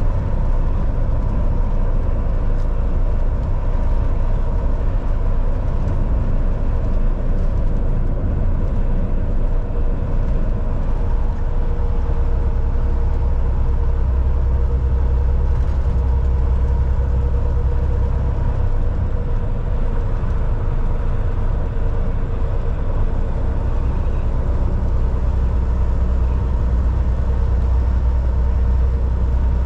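Volvo VNL 760 semi truck cruising on the highway: steady engine drone and road noise, a low rumble with a faint steady hum on top.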